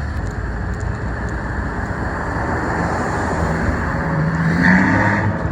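A car's engine and exhaust running loudly, the pitch rising as it accelerates and loudest about four and a half seconds in.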